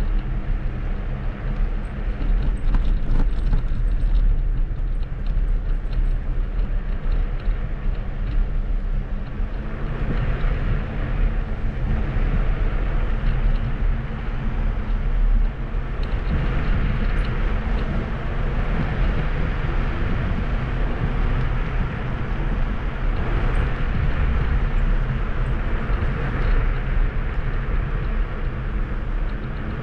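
Kugoo G2 Max electric scooter on the move: a steady low rumble of wind and tyre noise, with a hiss that grows louder about ten seconds in.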